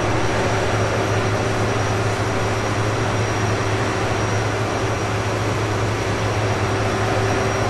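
Combine harvester's diesel engine running at a steady speed: an even, loud drone with a deep hum.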